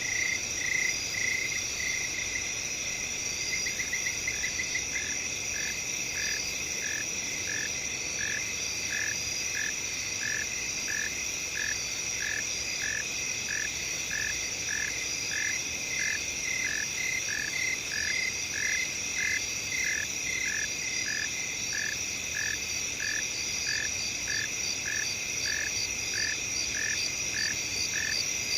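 Night chorus of crickets and other insects: a steady high-pitched trill, with one caller repeating a short, lower chirp about one and a half times a second.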